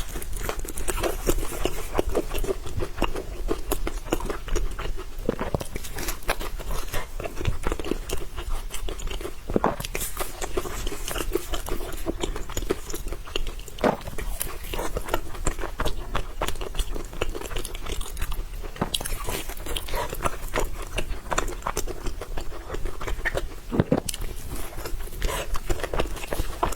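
Close-miked mukbang eating: a person biting and chewing food, with a dense, continuous run of small wet clicks and smacks.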